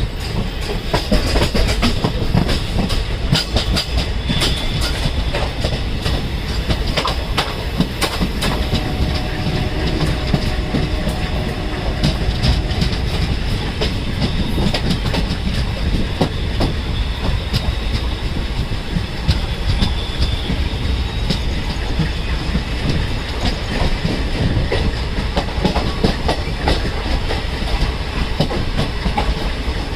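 Express passenger train running along the track: the coaches' wheels clatter over rail joints with a continuous rumble, and there is a faint high-pitched squeal now and then.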